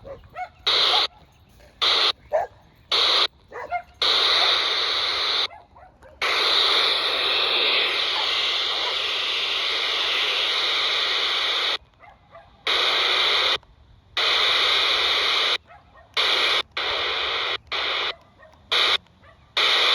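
CB radio receiver on the 27 MHz UK FM band picking up weak, fading skip signals: bursts of static cut in and out abruptly, some very short, with a long stretch in the middle that carries faint, warbling signal audio under the hiss.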